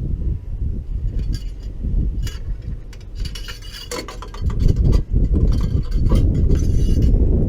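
Uneven low rumble like wind buffeting the microphone, getting louder about halfway through, with scattered light metallic clicks and clinks from handling the helicopter's fittings.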